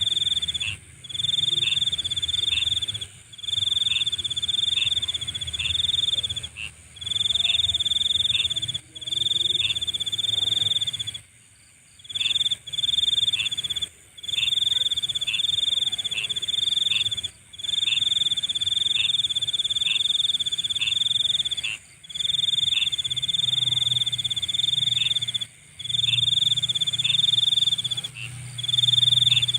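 Night insects trilling in chorus: a loud, steady high trill with a pulsing call beneath it and a low hum under that. The whole sound cuts out briefly about every two seconds, with a longer gap about eleven seconds in.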